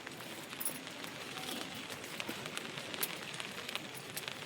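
Rain falling: a steady hiss with many scattered light ticks of drops striking surfaces.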